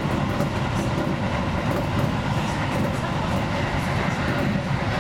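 Seibu 2000 series electric commuter train running along the line, heard from inside the front car behind the cab: a steady rumble of wheels on rails with a rattling car body.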